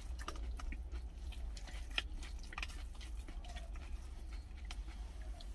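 A person chewing a mouthful of food, with scattered small sharp clicks from wooden chopsticks scraping and tapping inside a stainless steel lunch tin, one louder click about two seconds in. A steady low hum runs underneath.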